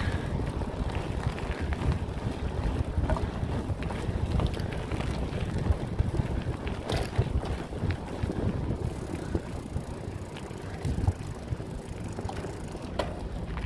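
Wind buffeting the microphone while riding a bicycle, a steady low rumble with a few brief knocks scattered through it.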